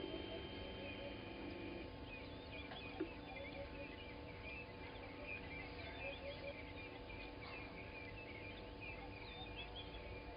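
Morning bird chorus in the bushveld around a waterhole: many birds chirping and calling at once, with shorter repeated lower calls, over a faint steady hum. A single sharp click about three seconds in.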